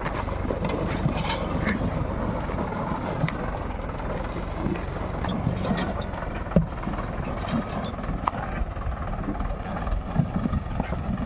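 Mahindra tractor's diesel engine running steadily, with a few short knocks over the rumble.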